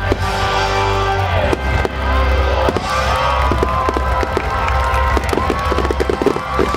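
Fireworks popping and crackling over the show's music, which has a steady bass and held tones. The crackles come thickest in the last couple of seconds.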